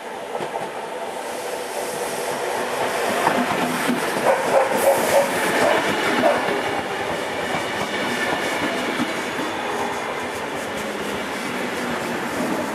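A passenger train passing close by at speed: a steady rush of wheels on rails, with a run of rhythmic clickety-clack knocks as the wheels cross rail joints, loudest about four to six seconds in.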